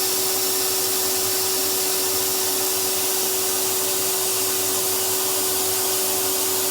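Numatic cylinder vacuum cleaner running steadily, its motor noise even with a constant hum tone.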